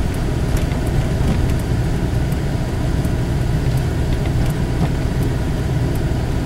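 Steady engine and road noise heard inside a four-wheel-drive vehicle's cab while it is driven slowly through snow, a constant low rumble with faint scattered light ticks.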